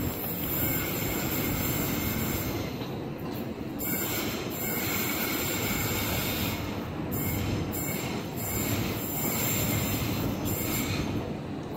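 Queensland Rail electric multiple unit rolling slowly into the platform, its wheels squealing in high thin tones that come and go over a steady rumble.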